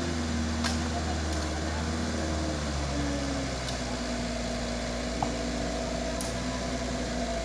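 Truck diesel engine running steadily at an even pitch, with a few faint clicks over it.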